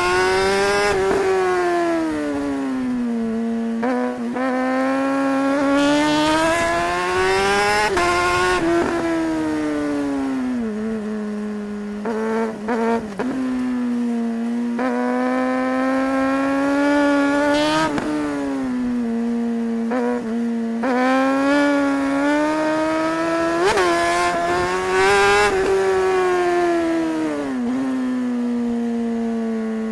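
Suzuki GSR 600's inline four-cylinder engine under riding. The revs climb and fall several times, with brief sharp breaks where the gears change.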